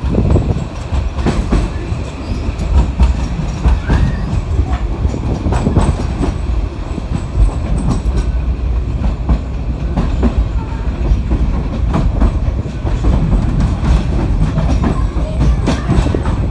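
Narrow-gauge Budapest Children's Railway train running, its wheels clattering over the rail joints with many irregular clicks and knocks over a steady low rumble.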